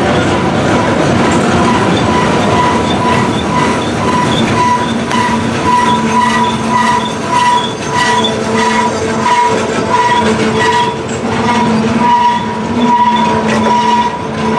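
Freight train cars rolling past with a steady wheel squeal, a high tone that pulses evenly about two to three times a second over the rumble of the wheels.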